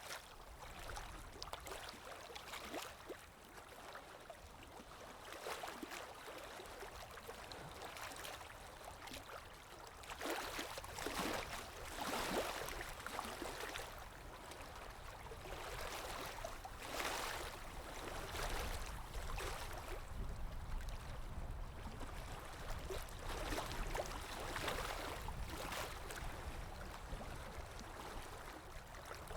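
Underwater ambience: muffled, gurgling water movement over a steady low rumble. It swells louder several times in surges a few seconds apart.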